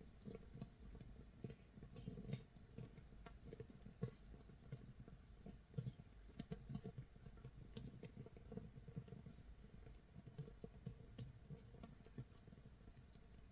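Makgeolli starter mash fermenting in an earthenware jar, 24 hours in: a faint, steady crackle of many small irregular pops and ticks from gas bubbles bursting at the surface, like light rain or crackling wood.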